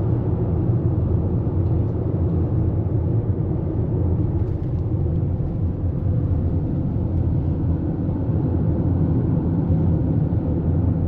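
A car driving at steady road speed: an even engine and road rumble with no change throughout.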